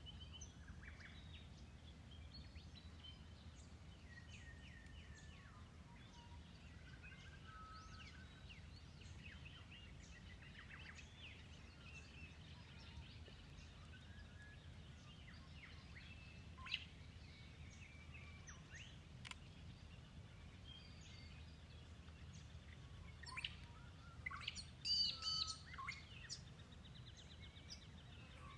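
Wild birds chirping and whistling, faint, over a steady low background hum, with a cluster of louder calls near the end.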